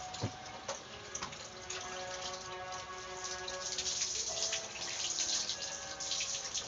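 Water splashing and pouring over a dog as the soap is rinsed off her, scooped and poured from a dipper (tabo); it gets louder about two seconds in.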